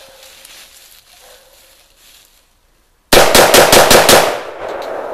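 Sig M4 gas-operated semi-automatic rifle firing six rapid shots in about a second, then a fading echo.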